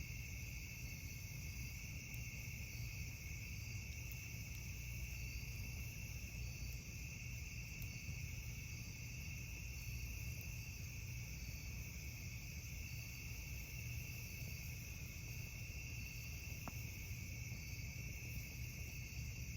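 Night chorus of crickets and other insects: steady high trilling in two bands, with a faint even pulsing in the upper one, over a low steady rumble.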